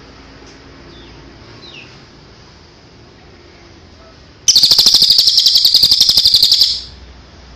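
Songbird singing: a few faint short down-slurred chirps, then about halfway through a loud, very rapid high trill lasting about two seconds.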